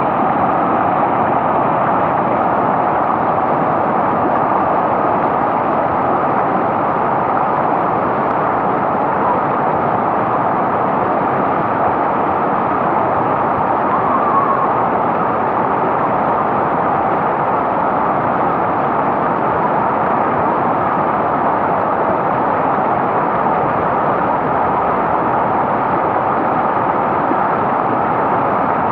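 Mountain stream water rushing, a loud steady noise with no change.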